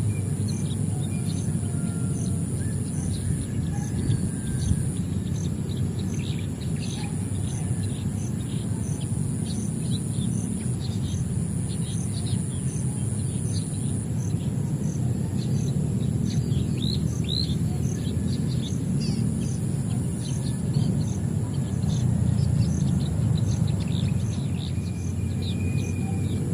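Several birds chirping in short, scattered calls over a steady high insect drone that pulses a little more than once a second, with steady low background noise underneath.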